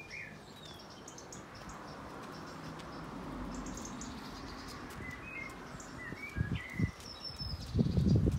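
Birds chirping and singing over a faint outdoor background. From about six seconds in, irregular low thumps and rumbling grow much louder.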